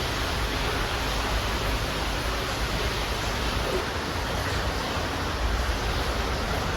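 Steady wind rushing over the microphone, with a low buffeting rumble.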